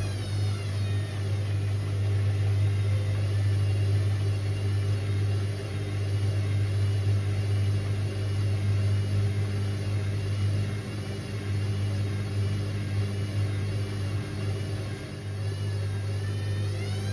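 Indesit IWC6165 washing machine's drum motor whining at a steady speed over a low hum, the pitch wavering slightly. Just after the start the whine stops falling and levels off, and at the very end it begins to rise as the motor speeds up again.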